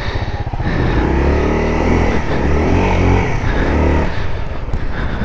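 Dual-sport motorcycle engine revved up and down under load as the bike is ridden out of deep mud. The revs rise and fall several times through the middle of the clip.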